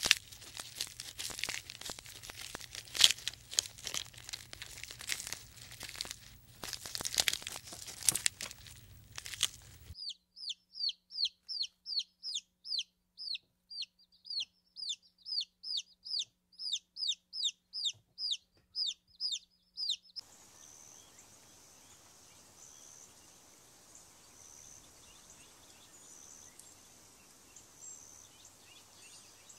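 A bird calling in a rapid run of short, high, descending notes, about three a second, for some ten seconds. Before it comes a stretch of irregular clicks and rustling; after it, only faint steady background.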